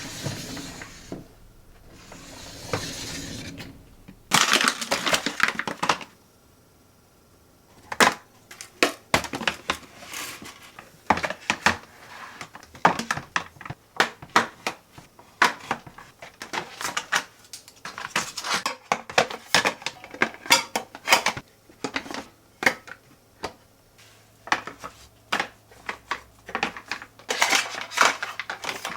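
Dishes and utensils clinking and knocking irregularly. The first few seconds hold three short stretches of hissing noise, and the clattering then runs on with many sharp taps.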